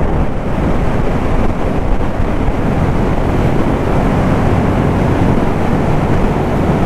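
Suzuki motorcycle under way: steady wind rush over the helmet microphone, with the engine's even drone underneath.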